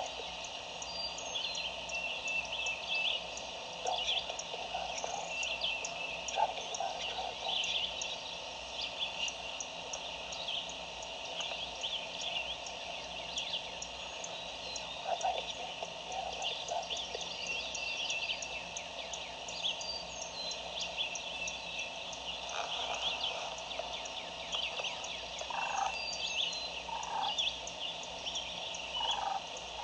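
Wild turkey gobbling faintly a few times in the last several seconds, over a steady chorus of high chirping calls.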